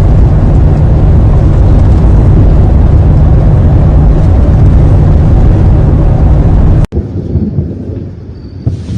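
Strong storm wind blowing hard over the microphone: a loud, steady low rumble with a rushing hiss on top. It cuts off abruptly about seven seconds in, leaving a much quieter background.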